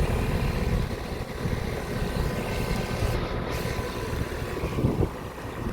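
Outdoor central air conditioner condensing unit running: a fan whoosh with a faint steady hum. Gusty wind buffeting the microphone gives an uneven low rumble.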